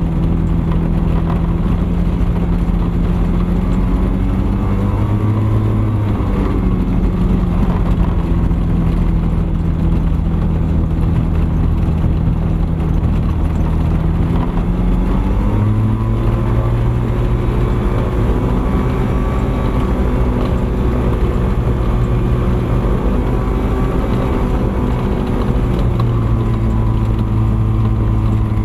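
Engine of a Thruster ultralight aircraft running steadily. Its note rises briefly about four seconds in, drops back, then climbs again around fifteen seconds in and holds there.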